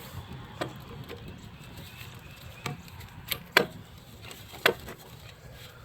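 A handful of sharp plastic clicks and knocks from electrical connectors and wiring clips being pushed back into place in an engine bay, the loudest about three and a half seconds in.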